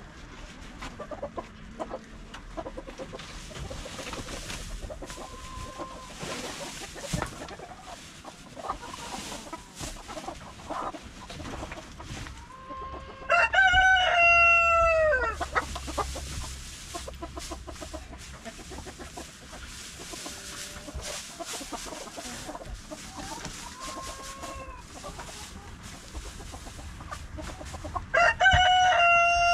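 A rooster crowing twice, each crow a loud stepped call lasting about two seconds, the first about halfway through and the second near the end. Between the crows, hens cluck softly.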